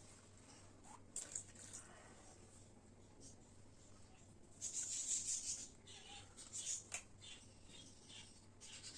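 Faint handling noises of a cracked plastic bird water drinker: scattered small clicks and rubs, with a brief, louder rush of hissing noise about five seconds in.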